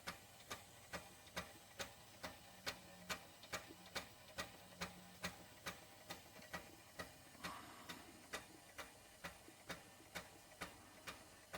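Doll 360 model steam engine running slowly and evenly, giving a faint, regular tick a little over twice a second.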